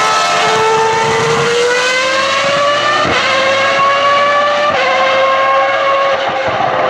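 Ferrari racing car's engine running hard on track, its note climbing slowly as it accelerates. There are two brief breaks in the note, about three seconds in and just before five seconds, where the pitch drops slightly at the gear changes.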